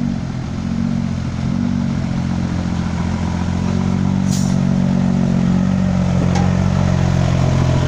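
Heavy diesel engine running steadily, growing slightly louder toward the end, with a brief hiss about four seconds in.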